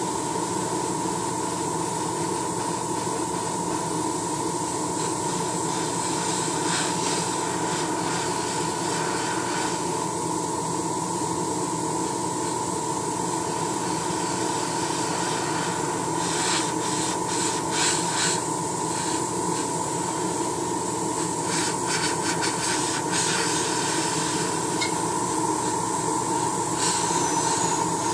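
Airbrush spraying paint in irregular spurts of hiss as the trigger is worked, over the steady hum of its running air compressor.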